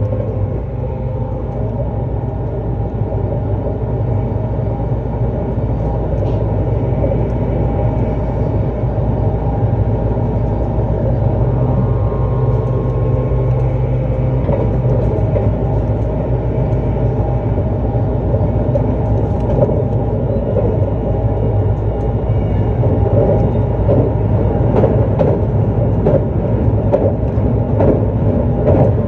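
JR East E259 series Narita Express electric train running at speed, heard from inside a car: a continuous rumble of wheels on rail with a steady motor hum. Faint tones come in near the middle, and it grows slightly louder toward the end.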